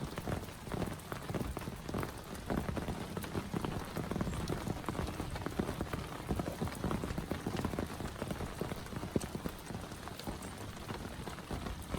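Heavy rain falling steadily, a dense irregular run of drop impacts hitting a surface close by.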